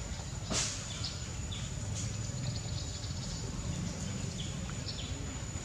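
Outdoor ambience of scattered short bird chirps over a steady low rumble and a thin, steady high tone, with one sharp click about half a second in.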